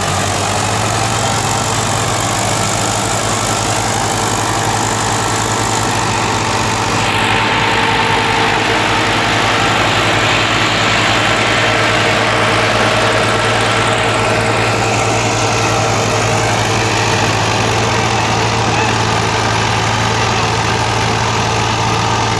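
Tractor diesel engine running steadily, with a low, even firing hum throughout. A broader rushing noise swells for several seconds in the middle.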